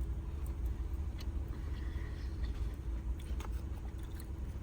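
Chewing a mouthful of food, with a few faint mouth clicks, over a steady low rumble.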